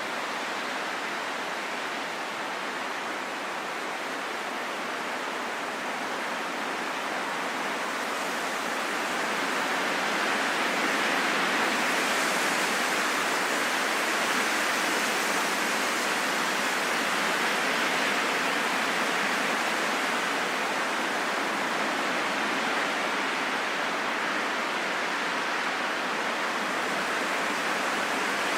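Steady rain falling in a forest, an even hiss that grows slightly louder about a third of the way in.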